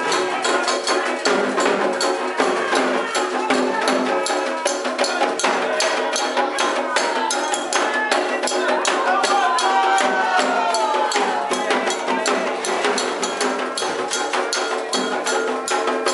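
Candomblé ritual music: live hand percussion keeping a fast, dense rhythm of strokes with a clacking struck pattern on top, and voices singing over it.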